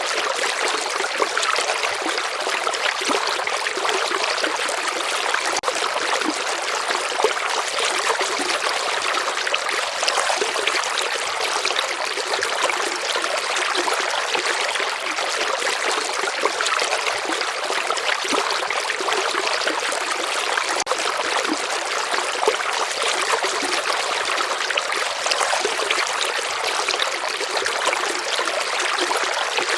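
A river or stream flowing steadily, with a continuous rushing and fine trickling over its surface and little low rumble.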